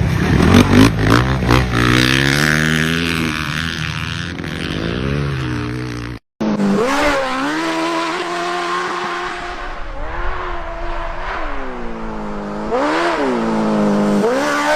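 Small off-road vehicle engines revving, the pitch climbing and dropping. There is a sudden cut about six seconds in, after which another engine revs up and down in repeated swoops.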